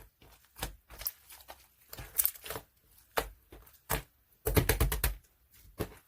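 Gold marbled slime being pressed and stretched by hand, making sticky clicks and pops in short irregular clusters, with a quick run of clicks about four and a half seconds in.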